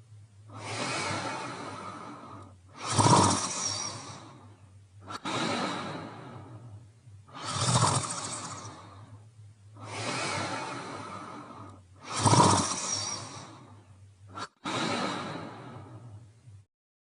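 Cartoon character snoring in its sleep: about seven slow, drawn-out breaths, one every two seconds or so, alternating softer and louder.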